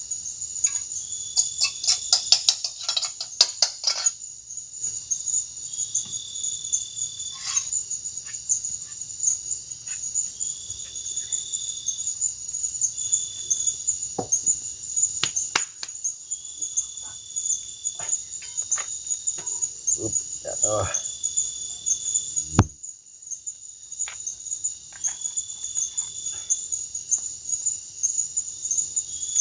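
Steady chorus of crickets and other insects in tropical forest, with repeated long, even trill notes over a continuous high chirring. Scattered clicks and knocks break in, including a quick run of clicks in the first few seconds and one sharp knock about three quarters of the way in, after which part of the chorus briefly falls quiet.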